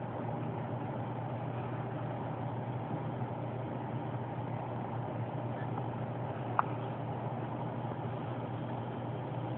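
A steady low mechanical hum, with one sharp click about two-thirds of the way through.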